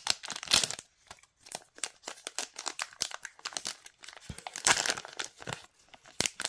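Trading card booster pack wrapper being torn open and crinkled by hand: irregular crackling, loudest in two clusters, one near the start and one about five seconds in.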